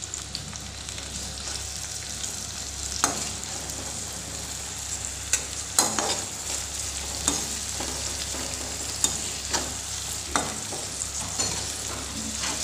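Onion paste frying with whole spices in hot oil in a non-stick wok, with a steady sizzle. It is stirred with a slotted spoon that scrapes and knocks against the pan every second or two.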